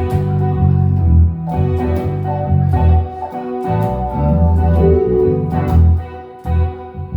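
Instrumental band jam: held organ chords over a bass line, with regular drum hits.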